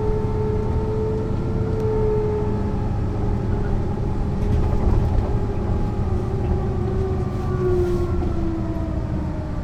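Mercedes-Benz O 405 NÜ low-floor bus under way: a steady low running rumble with a whine that slowly falls in pitch as the bus slows.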